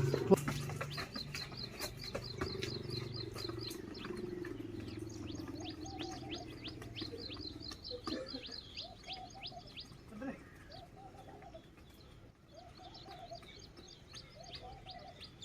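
Small birds chirping in quick, repeated downward-sweeping notes, with a lower arched call repeated about once a second in the second half. A low steady hum fades away over the first half.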